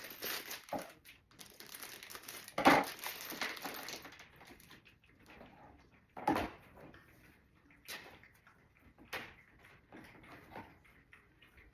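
Pieces of a heavy plastic squirrel baffle being handled and snapped together. About four seconds of scraping and rattling, with a loud snap about three seconds in, a sharp click a few seconds later, and a few lighter clicks after that.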